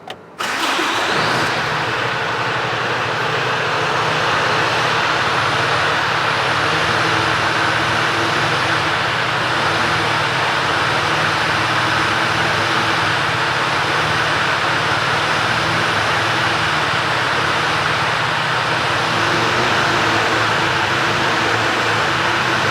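Mercedes-Benz Actros 1824 truck's Euro 6 straight-six diesel engine starting: it catches about half a second in and settles into a steady idle.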